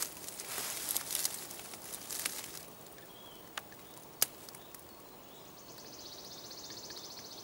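Footsteps rustling through dry forest-floor litter for the first couple of seconds, then quieter, with a few sharp clicks, the loudest about four seconds in. From about five and a half seconds on, a fast, even, high-pitched trill.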